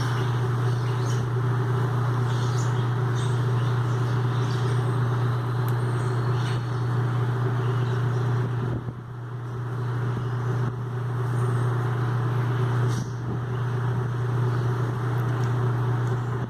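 A large mixed flock of European starlings, red-winged blackbirds and grackles chattering with many overlapping chirps, over a steady low engine hum.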